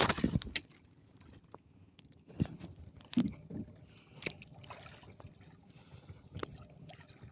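Knocks and water sounds aboard a small fishing boat: a brief splashy burst at the start, then scattered sharp knocks every second or so over a low background.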